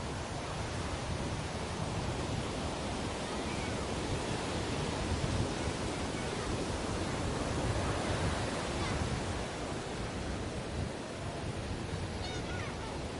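Sea waves breaking and washing up a beach: a steady rush of surf that swells louder in the middle and eases off near the end.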